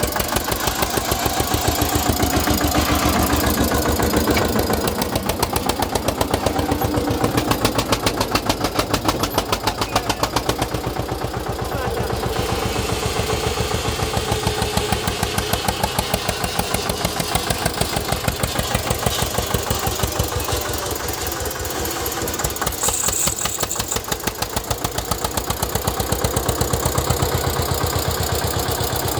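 Eicher 241 tractor's single-cylinder diesel engine running with a steady, rapid knock of firing strokes, its loudness easing and picking up again a couple of times as the throttle or load changes.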